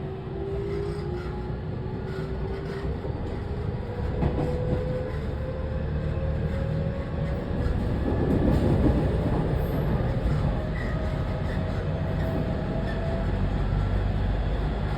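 JR West 207 series electric train's Toshiba IGBT VVVF inverter and traction motors whining, the tones rising slowly in pitch as the train picks up speed, over the rumble of wheels on rail. The whine fades out about eight seconds in, after a brief louder rush, leaving steady running rumble.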